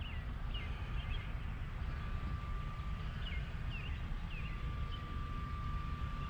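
Outdoor ambience: a small bird chirping in short, scattered calls over a low steady rumble, with a faint steady high tone coming in about two seconds in.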